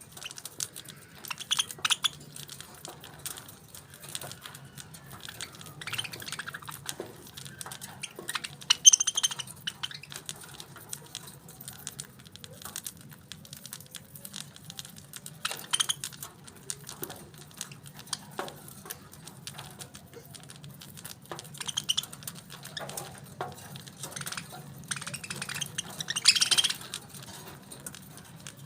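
Pet parakeets giving short, high chirps now and then, the loudest about nine seconds in and near the end, over many small clicks and taps. A steady low hum runs underneath.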